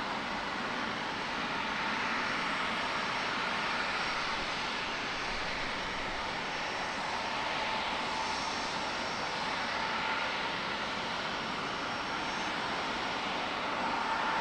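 Jet airliner engines running: a steady hiss and rumble with a faint high whine that swells and fades slightly.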